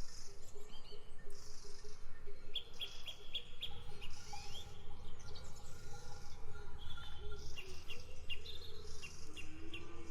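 Several songbirds chirping and trilling in quick, repeated short notes, over a steady hiss. A low rumble sets in about four seconds in.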